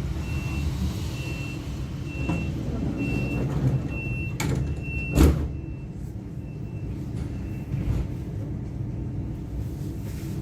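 Door warning beeps of a Class 425 electric multiple unit, a short high beep repeating a little more than once a second for about eight seconds, over the train's steady low hum. About halfway through there is a sharp click and then a loud thump.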